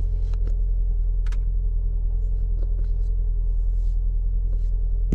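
Ford Focus ST engine idling steadily on its stock exhaust, a low even rumble shortly after a cold start. A few light clicks sound over it.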